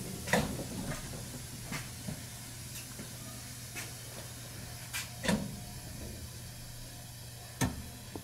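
Cab interior of a JR Shikoku local electric train moving off slowly: a steady low hum under a faint hiss, broken by irregular sharp clicks and clunks from the wheels and the cab. The loudest come about a third of a second in, around five seconds in, and just before the end.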